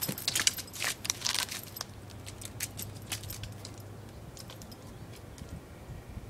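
A dog scrambling up a tree trunk: a rapid run of scratches and clicks from claws gripping bark, thinning out after about three seconds into a few fainter scrapes.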